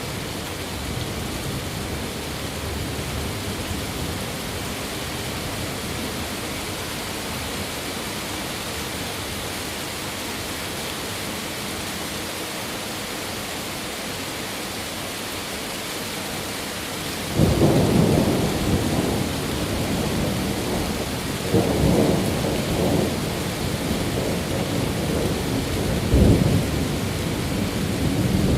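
Steady hiss of heavy rain, then thunder breaks in suddenly a little past halfway and rumbles on, swelling twice more toward the end.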